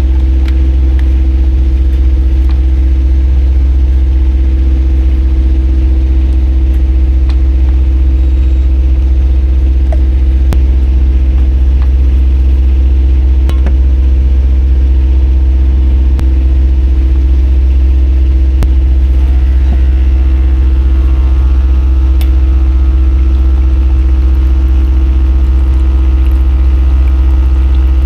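Sailboat's auxiliary engine running steadily at cruising speed while motor-sailing, a loud, even low drone with a steady hum above it.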